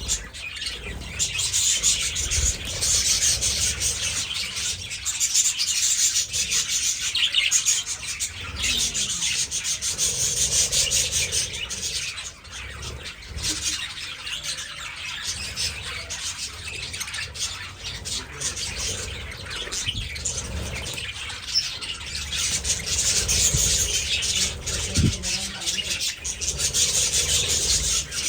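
A colony of budgerigars chattering all at once, a dense, continuous high-pitched chirping and warbling.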